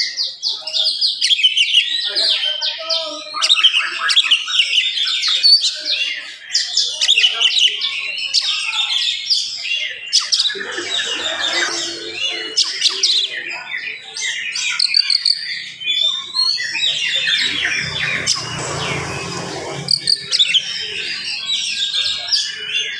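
Oriental magpie-robin (kacer) singing a fast, densely packed song of quick whistles and trills with hardly a break. A lower rumbling noise runs under the song for a few seconds near the middle and again from about 17 to 20 seconds in.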